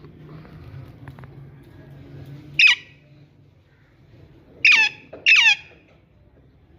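Parrot calling three times, short loud squawks that each drop sharply in pitch: one, then a quick pair about two seconds later.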